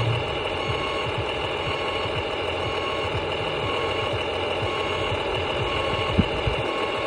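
Electric motor and gearbox of an HG P602 6x6 radio-controlled truck running steadily, giving a whirring mechanical hum.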